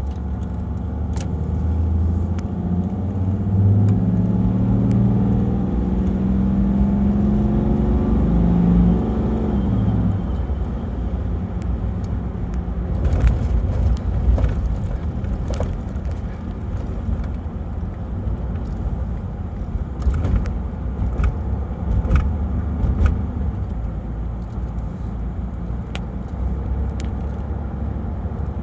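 1995 Toyota Land Cruiser turbo diesel driving. The engine pulls with its pitch rising for about ten seconds, then eases off, leaving a steady low road rumble with scattered clicks and rattles.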